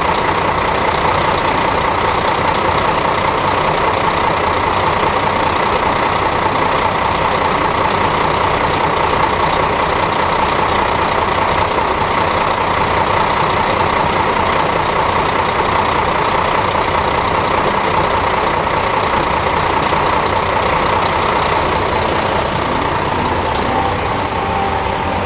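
Diesel engine of a JR Shikoku tourist diesel railcar idling steadily while the train stands still, with a constant hum and a slight drop in level near the end.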